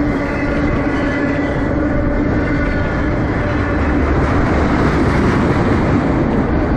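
Freight train flatcars rolling past at close range: a steady, loud noise of steel wheels running on the rails. A faint steady whine fades out in the first couple of seconds.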